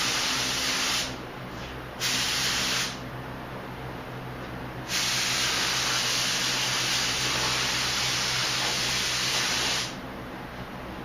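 Paint spray gun spraying primer: a loud hiss of air and atomised paint, given as a short pass, another short pass about two seconds in, then a long pass of about five seconds that stops near the end.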